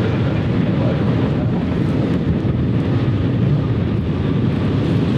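Wind buffeting the microphone: a steady low rumble without breaks.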